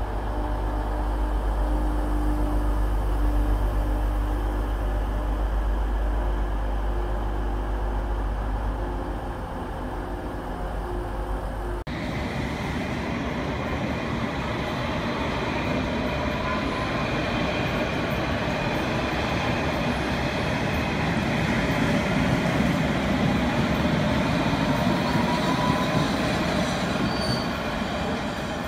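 A diesel multiple unit's engines running with a steady low drone. About twelve seconds in this gives way to a London Underground S-stock electric train running along a platform: a rumble of wheels on rail, with a motor whine that rises in pitch twice as it speeds up.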